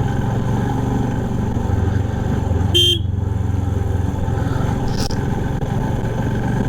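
Royal Enfield Himalayan's single-cylinder engine running steadily under way, heard from the moving motorcycle, with a short horn toot about three seconds in.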